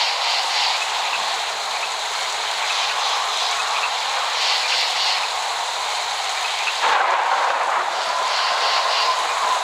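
Steady hiss of heavy rain, with no thunder rumble. The texture changes abruptly about seven seconds in. A faint thin whistling tone runs through the last couple of seconds.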